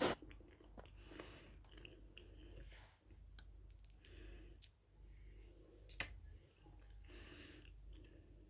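Eating sounds close to the microphone while chewing shrimp: soft wet mouth smacks and clicks, with a sharp click at the very start and another about six seconds in.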